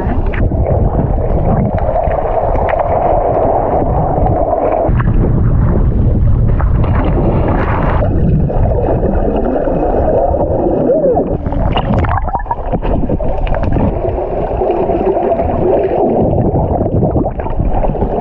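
Muffled sloshing and bubbling of water around a camera at or under the sea surface while snorkeling, with irregular knocks and splashes.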